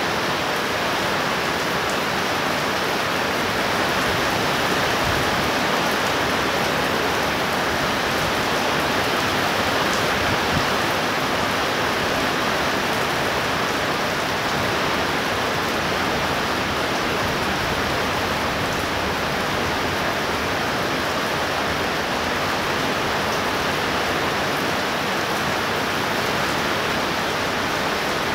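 Steady rain pouring down, an even hiss that neither builds nor fades.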